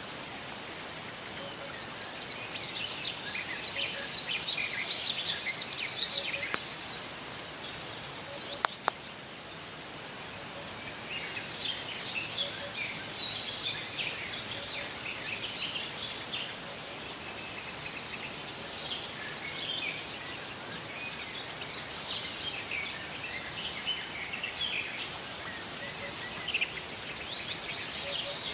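Small birds chirping and singing in scattered bursts over a steady outdoor hiss, with a couple of sharp clicks about nine seconds in.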